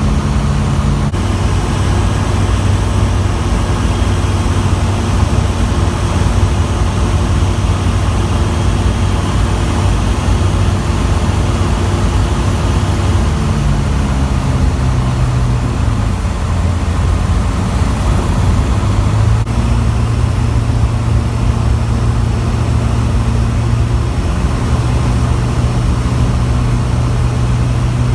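Zodiac 601 light aircraft's engine and propeller running with a steady, loud drone; its pitch steps up or down a few times as the power setting changes.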